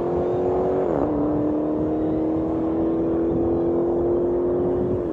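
Dodge Challenger SRT Demon's supercharged 6.2-litre Hemi V8 accelerating hard down a drag strip, its note climbing steadily, with an upshift drop about a second in and another at the end.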